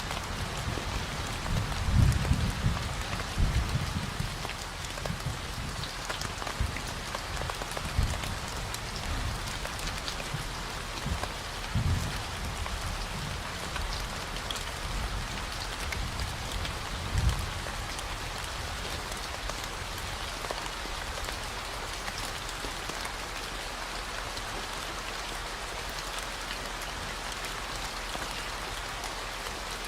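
Steady rain pattering on a surface, layered over a continuous low 40 Hz hum. Irregular low thuds come through in the first half, strongest about two seconds in and again near seventeen seconds, and the second half is even rain.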